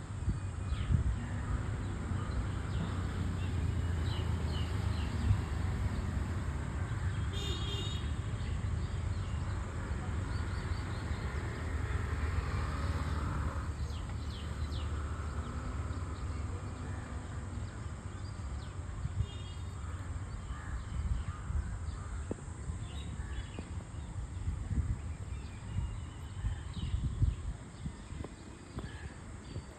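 Scattered short bird calls, a few of them harsh and caw-like, over a steady low rumble.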